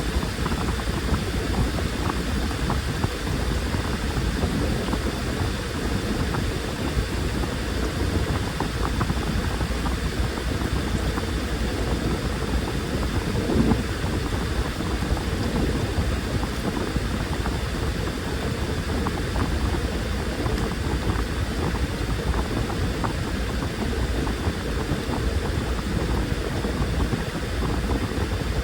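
Washing machine running: a steady low churning noise from the turning drum, thick with small splashing ticks from water and laundry, with one slightly louder knock about 13 seconds in.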